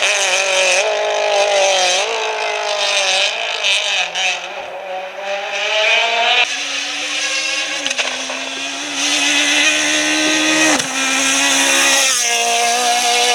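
Rally car engine running hard, its pitch rising and falling with several abrupt gear changes, including a brief sharp cut about 11 seconds in.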